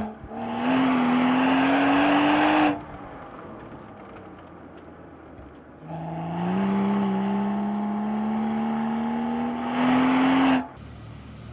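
BMW 135i's turbocharged inline-six accelerating hard twice, the engine note climbing steadily under load. The first pull is short; the second lasts about four seconds. Each one cuts off sharply as the throttle is lifted, dropping back to a lower, quieter running sound between them.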